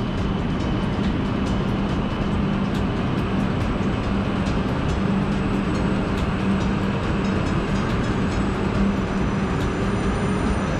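Onboard noise of a Tohoku Shinkansen Hayabusa train running at speed, heard from a passenger seat: a steady rumble with a constant low hum and scattered light ticks.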